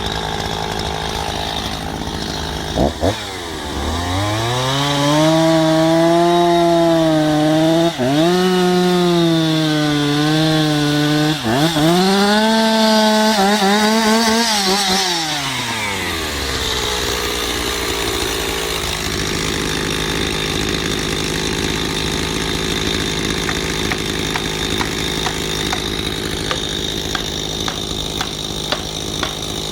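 Chainsaw idling, then revved up at about 3 s and run at high speed for some 13 s, its pitch dropping sharply twice as the bar bites into the wood, before it falls back to idle at about 16 s.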